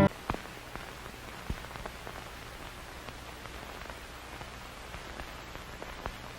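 Faint steady hiss with a few light, scattered ticks and clicks.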